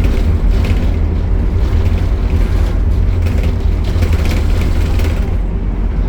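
Optare Solo bus's diesel engine running steadily with a deep hum, along with light rattling and creaking from the bus body that dies away near the end.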